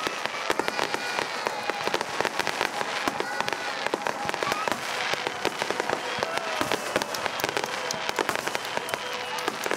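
Aerial fireworks going off in a dense run of many quick crackling pops and bangs, overlapping with no break.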